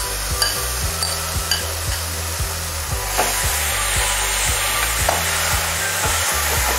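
Ground onion masala sizzling in hot oil in a pan while a steel spoon stirs and scrapes it, with repeated clicks of the spoon against the pan. The masala is being fried (bhuna) as the base for a stuffing.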